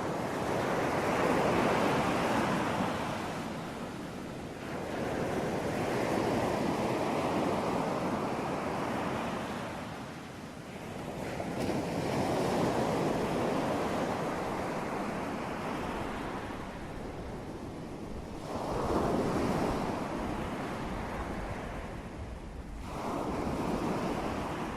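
Ocean waves breaking and washing up in a steady series, about five slow surges of surf, each swelling and fading over several seconds.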